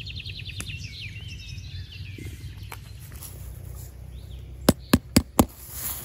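A songbird singing a quick trilling phrase that falls slightly in pitch and fades within the first two seconds, over a steady low outdoor rumble. About a second before the end come four sharp knocks in quick succession.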